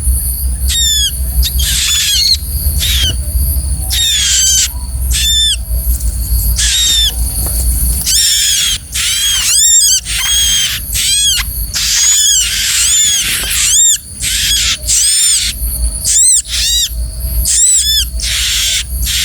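Bar-winged prinia (ciblek) giving a rapid series of shrill, arched chirps, several a second, crowding closest together around the middle. A low rumble runs underneath for much of the time.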